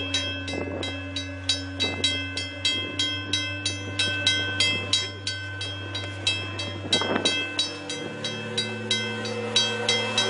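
Level-crossing bell ringing rapidly, about four strikes a second, over the low steady drone of a diesel train as it passes through deep snow. The train's drone drops in pitch about eight seconds in.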